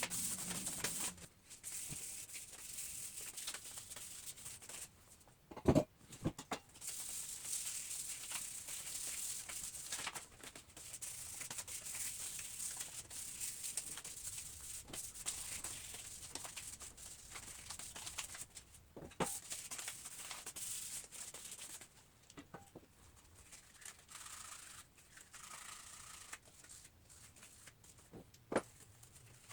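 Fine 2000-grit sandpaper scuffing a primed metal mini bike frame by hand, in long rubbing stretches with brief pauses, scuffing the primer so paint will adhere. A few sharp knocks of the part being handled, the loudest about six seconds in.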